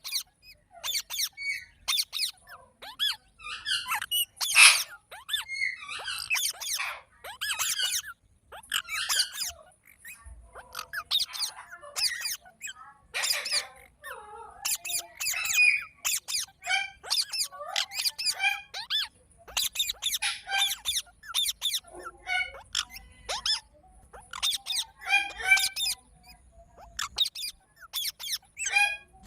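Pet green parrot chirping and squawking in quick runs of short, sharp calls, with a brief lull about a third of the way in.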